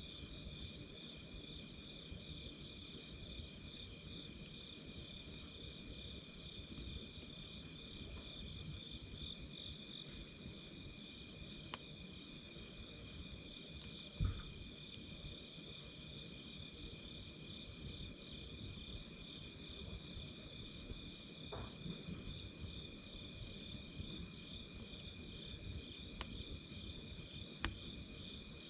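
Insects trilling steadily at a high pitch, with a campfire's burning wood popping now and then; the loudest pop comes about halfway through.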